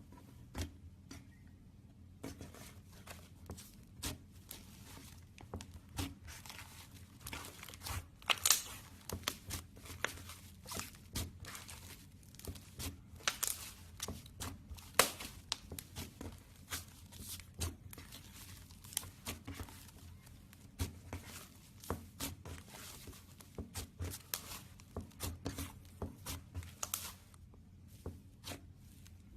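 Slime being squeezed and worked by hand: an irregular run of sticky clicks and crackling pops, some much sharper than others, starting about two seconds in and thinning out near the end.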